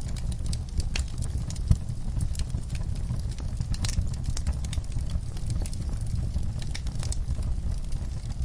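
Wood fire burning in a fireplace: a steady low rumble with irregular crackles and pops, one louder pop a couple of seconds in.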